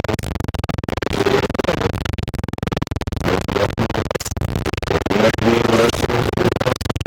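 Loud, harsh TV static crackling, with wavering pitched tones breaking through the hiss a few times.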